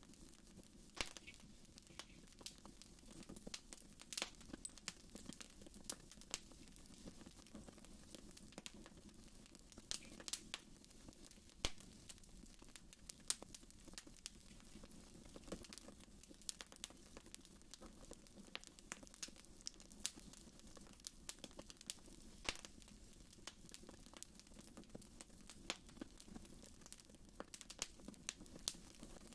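Wood fire in a fireplace crackling, with irregular pops and snaps over a faint steady low background; the sharpest pops come around the middle.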